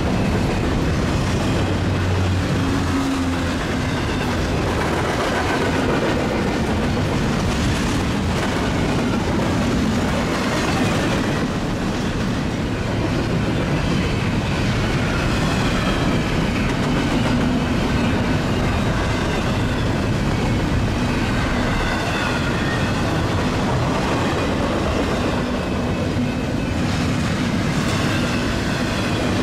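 Double-stack intermodal freight train rolling past, a steady noise of its wheels on the rails.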